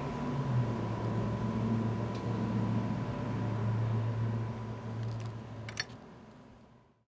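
A beatboxed bass drone: a low steady hum that holds, then fades out over the last couple of seconds, with a short click just before it dies away.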